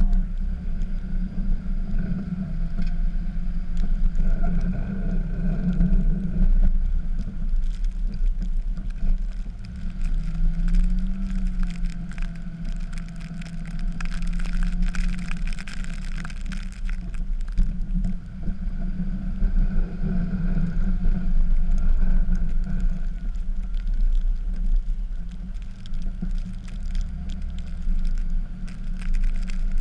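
Dodge pickup's Cummins diesel engine running through a snow-plowing run, its pitch rising and falling as the truck works back and forth, with scattered rattles and clicks over it.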